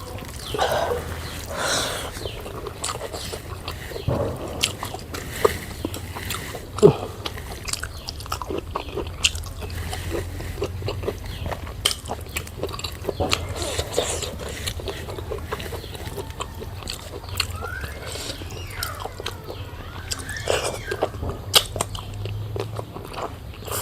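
A person chewing and eating close to the microphone, with a steady run of small wet mouth clicks and smacks.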